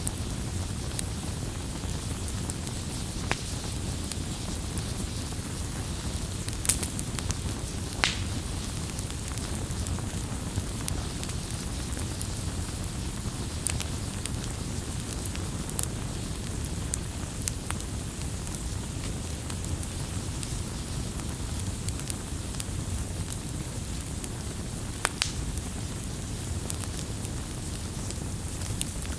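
Campfire burning: a steady low rumble of flames under scattered sharp crackles and pops from the burning wood, a few of them louder.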